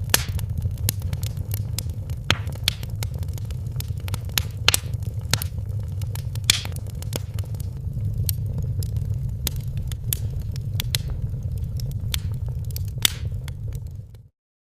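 Wood fire in a fireplace crackling, with scattered sharp pops over a steady low rumble. It fades out to silence for a moment near the end, then starts again.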